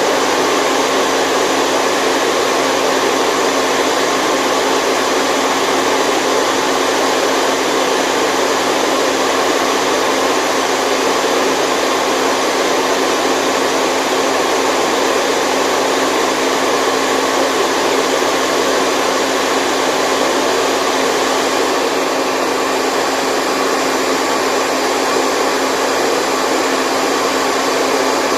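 Continuous white noise: an even, unchanging hiss with very little bass.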